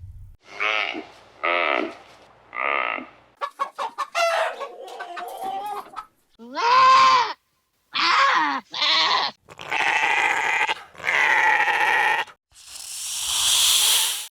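Farm animals calling one after another: about nine separate calls with short pauses between them, a quick run of clucking in the middle, and longer, harsher bleat-like calls near the end.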